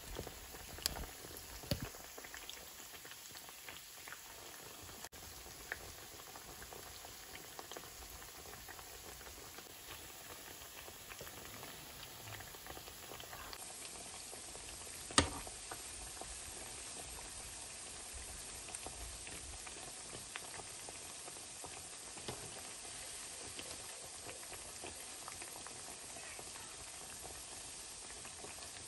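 Ripe plantain slices frying in hot oil in a pan: a steady sizzling and bubbling, with a few sharp clicks of a metal slotted spoon against the pan as the slices are turned. The loudest click is about fifteen seconds in.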